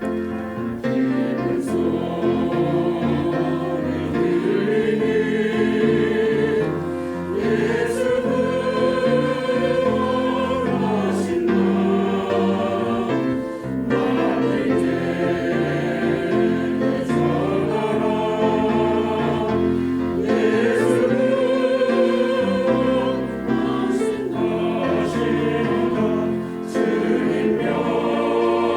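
Church choir singing an anthem in several parts, with sustained, moving vocal lines.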